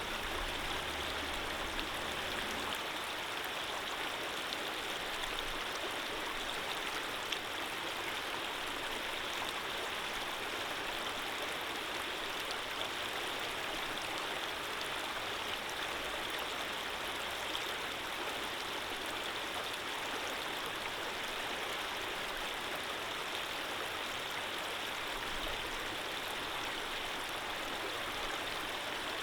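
Running water flowing steadily, a gentle stream with an even rushing sound and occasional faint drips.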